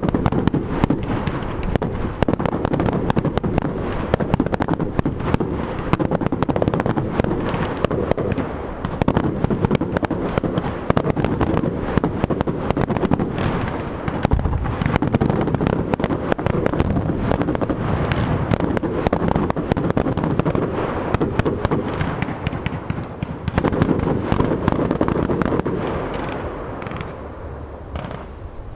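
Fireworks display: a dense, continuous barrage of bangs and crackling, thinning out near the end.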